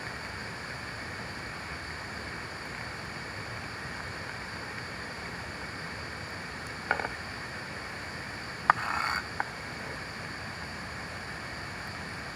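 Steady rushing water noise of rain and a nearby river. A short sharp sound comes about seven seconds in, and a click with a brief half-second burst comes near nine seconds.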